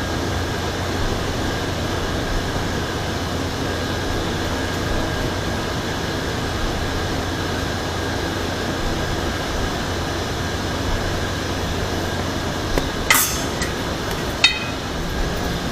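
Steady background hum with two sharp metallic clinks near the end, about a second and a half apart, as of metal tools or bike parts being handled.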